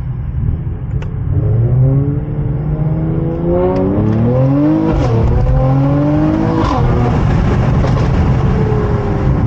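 Mercedes-AMG E53's 3.0-litre inline-six, fitted with catless downpipes, accelerating hard: the exhaust note climbs in pitch, drops at an upshift about five seconds in, climbs again and drops at a second upshift near seven seconds, then pulls steadily.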